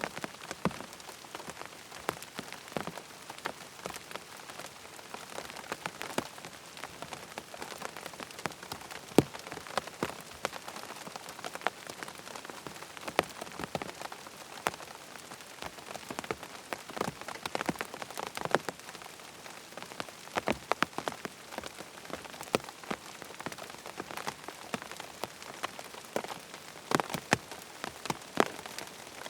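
Steady rain pattering on tent fabric, a continuous hiss of fine rain with many separate, louder drops hitting the tent at irregular intervals.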